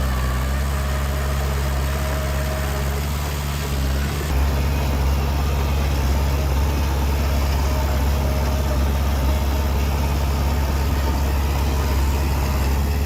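Heavy diesel engine of earthmoving machinery, a bulldozer or dump truck, running steadily with a low hum. Its sound shifts and gets slightly louder about four seconds in.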